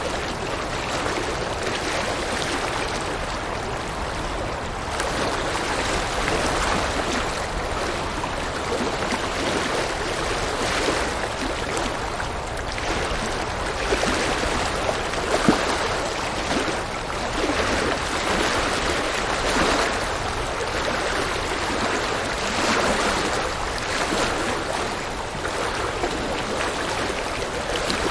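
River water flowing and splashing over rocks: a steady rushing with small swells in loudness and no break.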